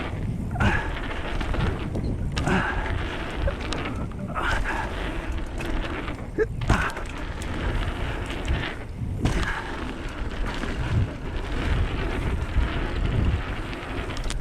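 Wind buffeting the microphone and knobby tyres rumbling over dirt as a 2014 Transition Covert 26-inch carbon mountain bike rides a jump trail, with a few brief lulls.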